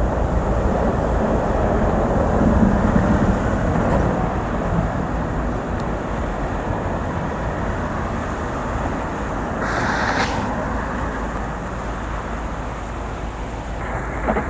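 Steady rush of road traffic and tyres on wet pavement in heavy rain, louder over the first few seconds, with a short hiss about ten seconds in.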